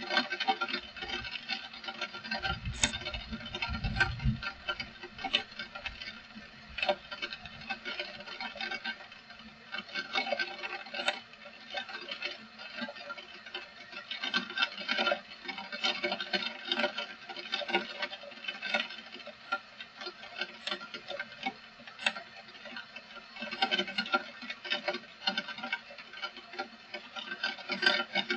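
Heavy rain pattering, a dense, irregular run of drops hitting close by, with a brief low rumble about three seconds in.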